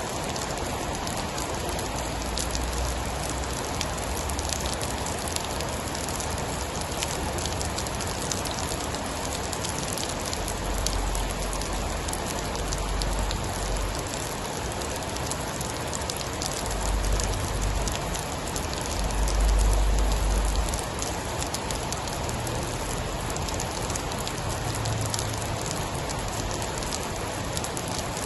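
Steady rain, an even hiss dotted with fine drop ticks. A low rumble swells up several times, loudest about two thirds of the way through.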